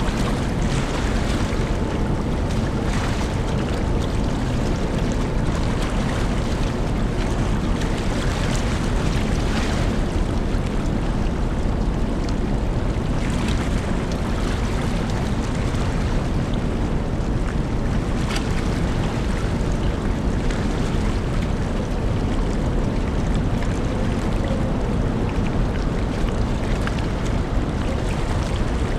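Steady low rumble and rushing noise of a large car ferry under way, with wind buffeting the microphone.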